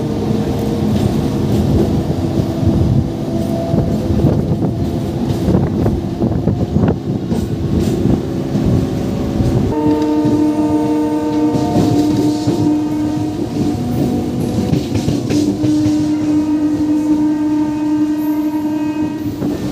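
MEMU electric train running at speed, the wheels and coaches rumbling with scattered knocks. About ten seconds in, the train's horn starts a long steady blast that is broken briefly once and carries on to the end.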